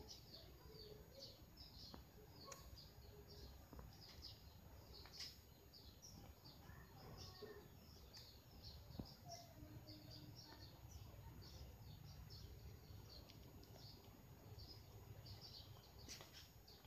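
Faint chirping of small birds: many short, high calls in quick, irregular succession, over a low background rumble.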